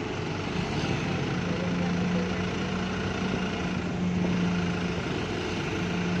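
Heavy diesel engine of an excavator running with a steady drone.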